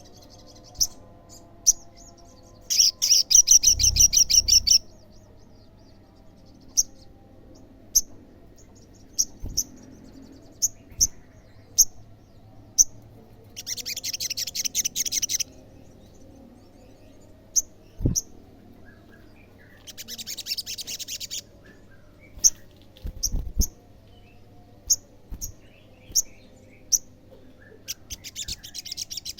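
Olive-backed sunbird singing: sharp high single chirps about once a second, broken four times by a fast high trill lasting about two seconds. The first trill, a few seconds in, is the loudest.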